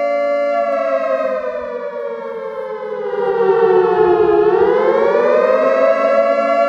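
Civil defense siren sounding a steady two-note wail; about half a second in its pitch sinks slowly for several seconds, then climbs back up and holds at the original steady tone.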